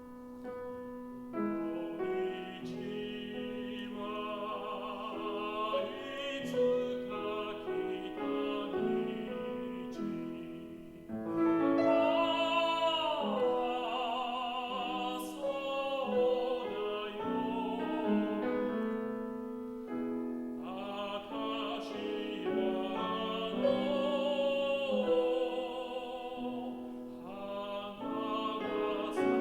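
A tenor singing a Spanish art song in full operatic voice with wide vibrato, accompanied by grand piano. The voice enters about a second in, pauses twice between phrases and sweeps down through a long melismatic run near the middle.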